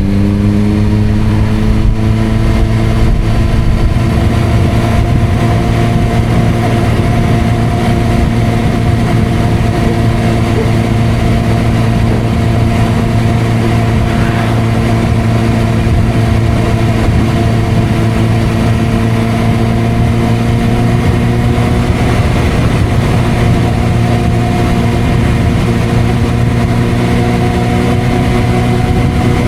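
Suzuki GSR600's inline-four engine running through a Dominator aftermarket exhaust while riding. The engine note rises a little in the first couple of seconds, then holds at a steady pitch, as at an even cruising speed.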